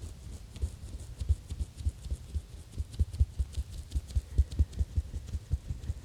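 Exfoliation gloves rubbing and scratching close around a microphone: quick soft low thumps, about four or five a second, with a faint scratchy hiss over them, growing stronger about a second in.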